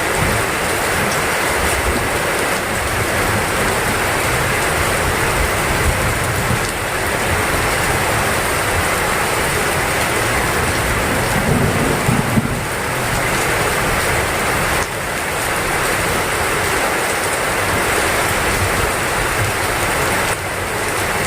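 Heavy rain pouring steadily, with a low rumble of thunder about halfway through.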